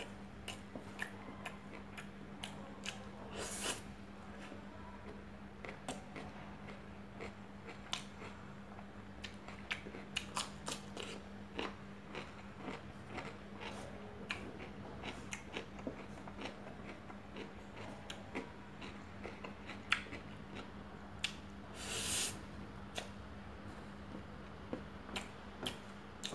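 Close-up chewing and lip-smacking of a person eating rice by hand, with many short wet clicks and a couple of longer smacking slurps, one about three and a half seconds in and one late on. A steady low hum runs underneath.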